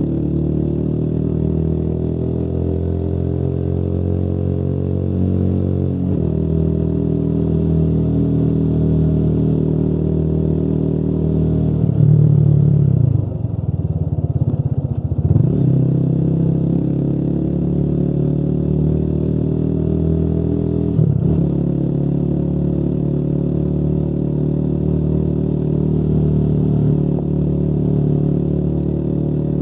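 Motorcycle engine running under way, its pitch climbing slowly, with a gear change about six seconds in and another about twenty-one seconds in. Around the middle the sound wavers and dips for a few seconds before the steady running returns.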